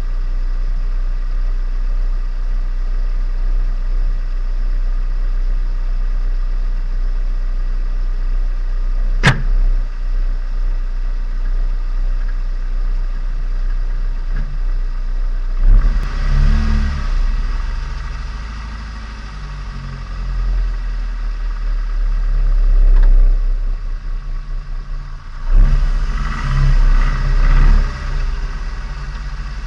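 Turbocharged Nissan Micra engine and exhaust heard from onboard during engine break-in: steady running for the first half, with a single sharp click about nine seconds in, then two louder bursts of acceleration, the second near the end.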